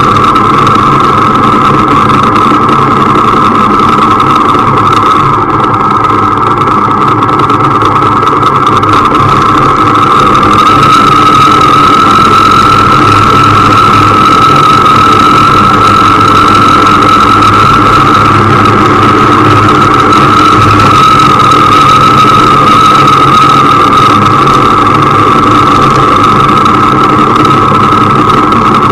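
Motorcycle engine running steadily under way, loud and close to an onboard camera, with a steady whine; it grows slightly louder about ten seconds in.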